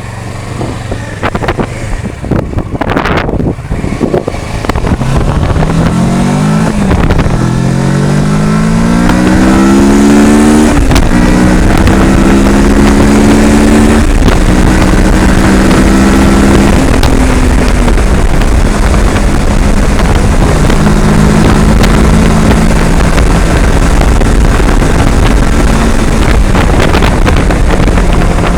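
Kawasaki Versys 650 parallel-twin engine pulling away. Its pitch rises through the gears and drops at each upshift, then it runs at a steady cruise. Heavy wind noise on the microphone runs throughout, and there are a few sharp knocks in the first few seconds.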